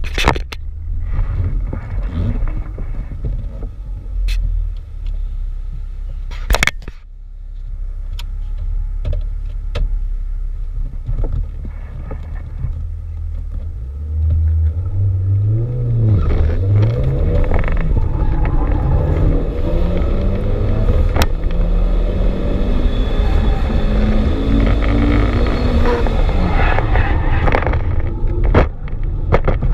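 Mitsubishi Lancer Evolution X's turbocharged 2.0-litre four-cylinder (4B11T) engine, heard inside the cabin, running low and steady near idle, with a few sharp knocks in the first seven seconds. From about halfway the revs rise, and the engine note climbs in pitch with brief dips and grows louder.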